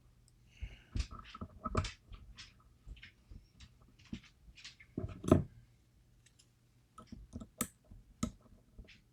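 Irregular small metal clicks and taps from a DOM IX Twinstar lock and lock-picking tools being handled, with a louder click about five seconds in.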